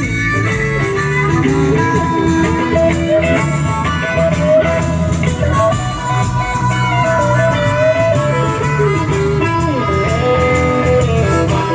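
A blues band playing live, instrumental: a guitar carries a lead line with bent, sliding notes over bass and drums.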